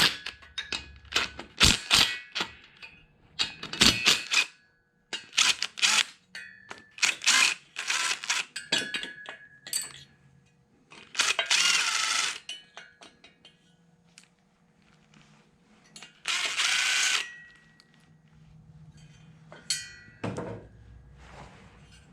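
A hand ratchet on the 11 mm cylinder head nuts of a scooter engine, clicking in quick runs with sharp metal clinks as the nuts are worked loose a little at a time. Two longer raspy bursts of about a second each come later on, and a few knocks follow near the end.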